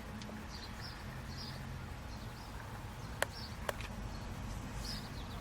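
Quiet outdoor background with a low steady hum and faint, scattered bird chirps, plus two light clicks a little after the middle.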